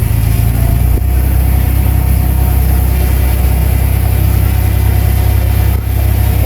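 Bulldozer's diesel engine running steadily with a deep low drone. Its pitch shifts slightly about a second in, and there is a brief dip near the end.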